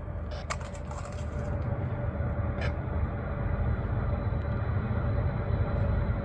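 Diesel locomotives of a freight train led by an EMD SD70MAC, a deep steady rumble growing louder as the train approaches working up a steep grade. A thin steady whine runs through it.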